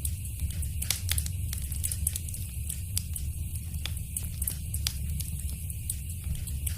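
Wood fire crackling, with irregular sharp pops and snaps several times a second over a steady low rumble and hiss.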